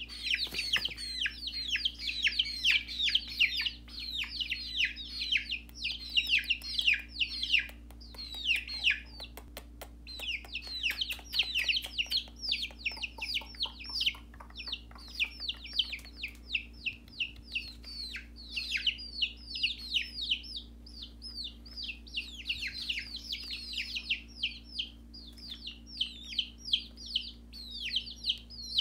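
Baby chickens peeping nonstop in rapid, high-pitched chirps that each slide downward, over a faint steady hum.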